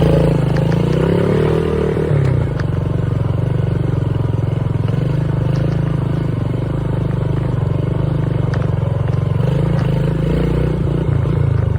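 Dirt bike engine running loud and close while the bike is ridden along, its rapid firing pulses holding a fairly steady pace. The tone shifts briefly in the first couple of seconds, and some rattling rides over the engine.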